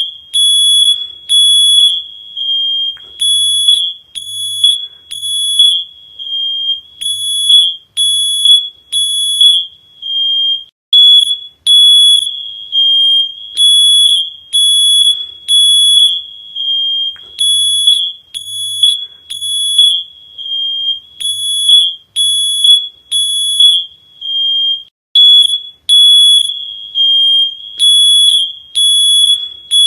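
High-pitched electronic alarm beeping over and over, one piercing steady tone switching on and off about once or twice a second in an uneven rhythm.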